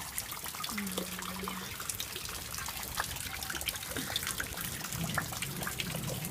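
Water trickling and dripping steadily, with many small splashes.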